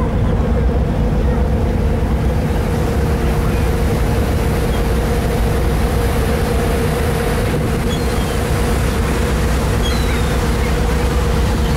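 Departing ship's engines running with a steady low drone and a steady hum. A rushing noise builds in about two seconds in and holds.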